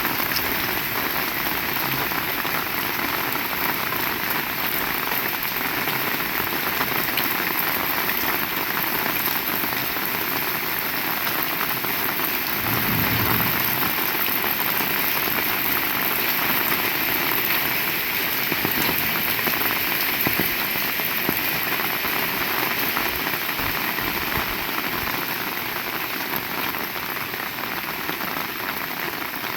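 Heavy rain falling steadily, a dense, even hiss of drops hitting surfaces, with a brief low rumble about halfway through.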